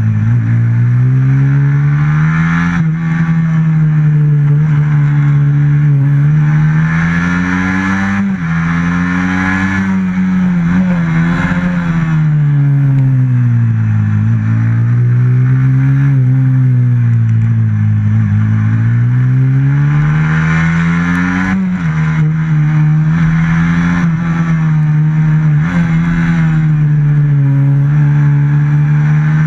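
On-board sound of a racing motorcycle's stock FXR150 engine lapping a tight kart track. The revs climb and fall again every few seconds through straights and corners, with a couple of abrupt jumps in pitch at gear changes.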